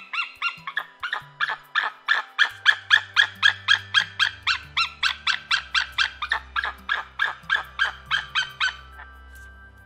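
White-tailed eagle calling: a long, rapid series of sharp notes, about four a second, that stops about a second before the end.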